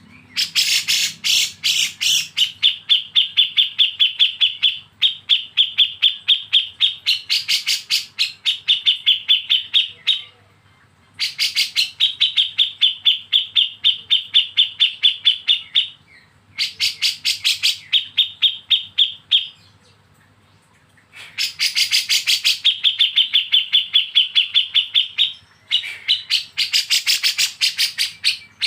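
Bulbul (kapas tembak or cucak jenggot) giving its rapid, harsh 'besetan' call: a fast run of many sharp notes a second, in loud bouts of a few seconds broken by short pauses, about five bouts in all.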